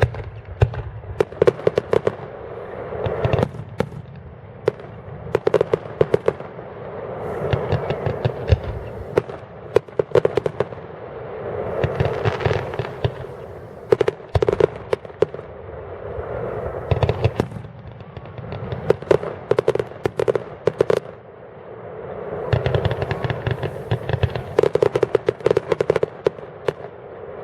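Fireworks display: rapid, dense runs of sharp bangs and crackling that swell in waves every two to three seconds.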